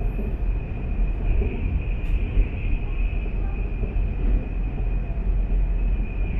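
Steady running noise of a high-speed train at speed, heard from inside the passenger car: a constant low rumble with a steady high whine over it.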